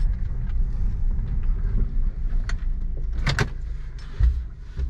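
Steady low rumble of a parked car running, heard inside the cabin. It is broken by a few light clicks, a pair of sharp clicks a little over three seconds in, and a dull thump about a second later.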